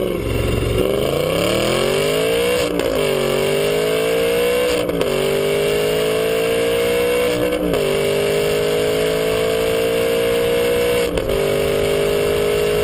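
Aston Martin V8 Vantage's naturally aspirated V8 accelerating hard through the gears. The engine note climbs, then drops at each of four upshifts, with each gear held longer than the last.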